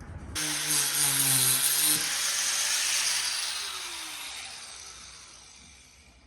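Angle grinder fitted with a cutting disc biting into metal: it starts suddenly about half a second in with a loud hissing rasp over a low hum. After about three seconds it eases off and the disc spins down, fading away.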